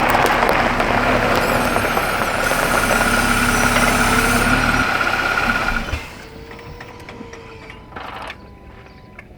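A vehicle's engine running with a dense rushing noise and a steady hum, cutting off suddenly about six seconds in, after which only a much quieter background with a few faint clicks remains.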